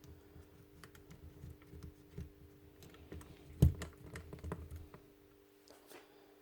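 Light clicks and taps of small plastic and metal jigsaw parts being handled and fitted together by hand, with one sharper knock about three and a half seconds in; the clicking stops near the end.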